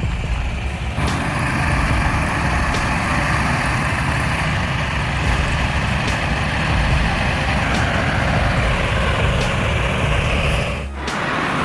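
Heavy truck running, with a steady low engine rumble and noise. It grows louder about a second in and breaks off briefly near the end.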